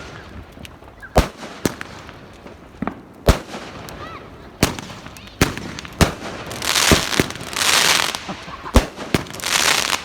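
Fireworks going off: a string of sharp bangs, about eight in all, with two spells of dense crackling hiss in the second half.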